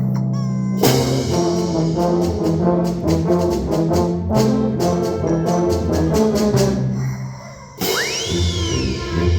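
Wind band playing a fast galop, with brass and percussion in quick rhythmic chords. It drops away briefly near the end. When the band comes back in, a rubber chicken's squeal rises and then falls over about a second.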